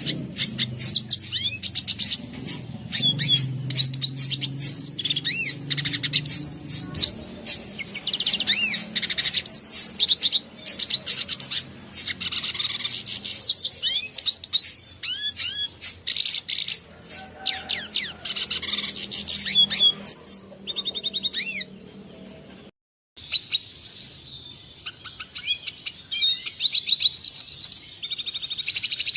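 Red siskin singing a fast, unbroken twittering song of high chirps, whistled slurs and trills. The song cuts out for a moment about three-quarters of the way through, then goes on.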